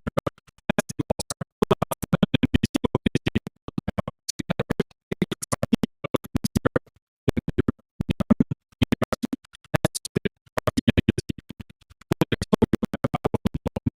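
Rapid ticking clicks, about ten a second, in bursts of a second or so with short pauses between them, in the rhythm of fast typing on a keyboard.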